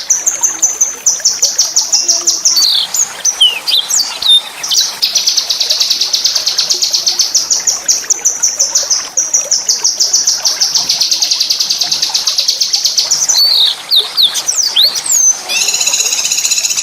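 A small songbird singing long, fast, high-pitched rattling trills. They are broken twice by short sweeping whistled notes: once a few seconds in and again near the end.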